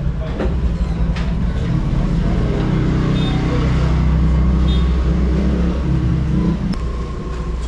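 Road traffic: a motor vehicle's engine rumbling as it passes, its sound swelling in the middle and easing off near the end.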